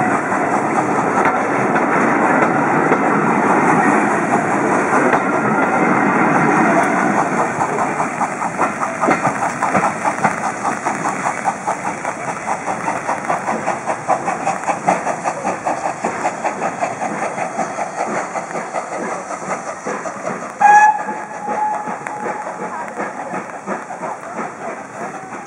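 Railway coaches of a steam-hauled passenger train rolling past close by, then the rhythmic clickety-clack of their wheels over the rail joints, fading as the train pulls away. About three-quarters of the way through, a brief whistle sounds, held for about a second and a half.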